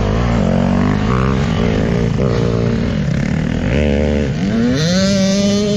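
Motocross dirt bike engine under hard throttle, its pitch climbing and dropping several times with throttle and gear changes, then rising steeply near the end and holding high.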